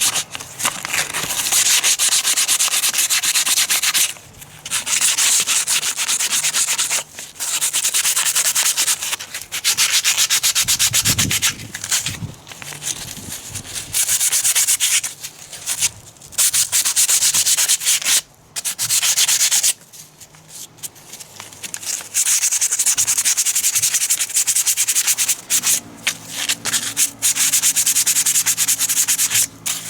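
Something being rubbed or sanded by hand: long runs of fast, scratchy strokes, broken every few seconds by short pauses.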